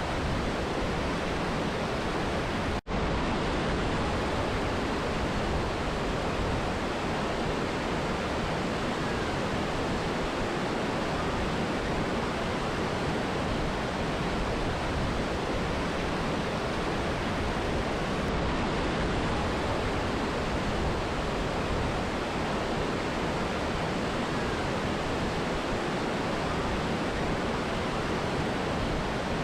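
Mountain river and waterfall rushing in a steady, even roar of water, with a momentary break in the sound about three seconds in.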